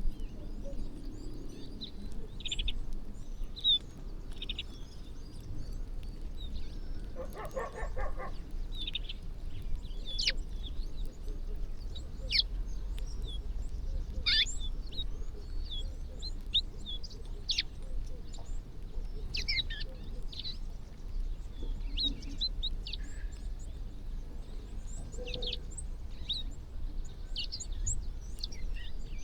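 A flock of small birds chirping as they feed, with short, sharp chirps scattered throughout and one lower, longer call about seven seconds in, over a steady low rumble.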